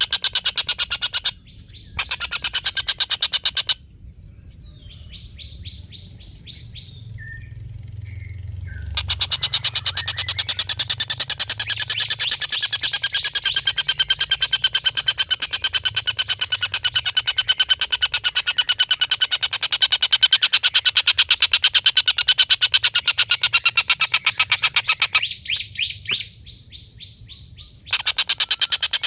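Tengkek buto kingfisher giving its long cackling call: long runs of rapid, evenly repeated harsh notes, breaking off twice for a few seconds, with fainter calls in the first pause.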